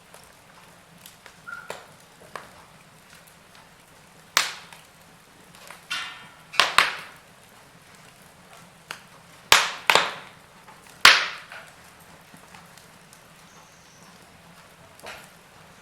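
Wood fire crackling in a fireplace: a handful of sharp, loud pops and snaps between about four and eleven seconds in, with fainter ticks over a low hiss.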